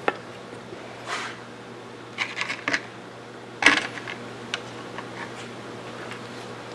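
Small metal parts of a lever-action rifle's action clicking and tapping as they are handled during reassembly. There is a quick cluster of clicks a little past two seconds in and a sharper one near the middle, over a steady low hum.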